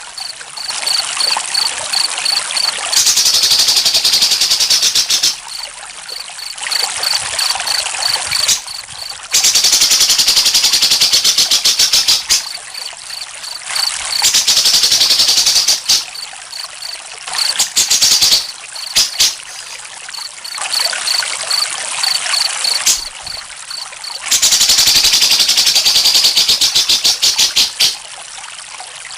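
Trickling water under chirping crickets: loud, rapid high-pitched trills lasting a few seconds alternate with quieter stretches of an evenly spaced chirp.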